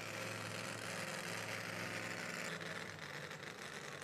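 Super modified two-wheel-drive pulling truck's engine idling steadily, a low even hum, slightly softer in the second half.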